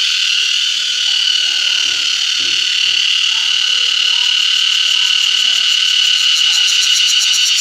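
Cicadas buzzing loudly in a steady, high-pitched drone, with a fast pulsing rhythm joining in the upper range about halfway through.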